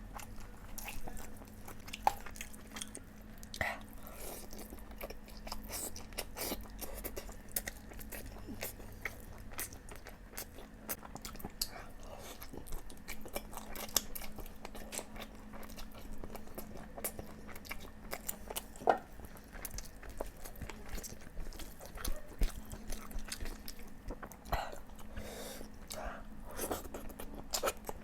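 Close-up eating sounds of a person chewing and biting boiled eggs and chicken curry: irregular wet smacks and small clicks, over a faint steady hum.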